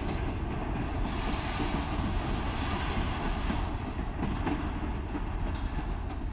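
Freight train rolling past, its steel wheels clattering over the rail joints amid a steady rumble.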